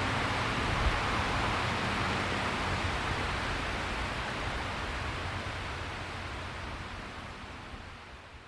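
Steady rushing of a mountain river's flowing water, gradually fading out. The last notes of background music die away in the first second.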